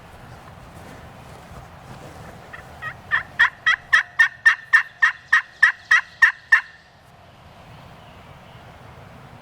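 A turkey call sounding a run of about fourteen hen yelps, about three or four a second, starting soft and quickly growing loud, beginning about three seconds in and stopping sharply some four seconds later. The calling is meant to get a silent gobbler to answer.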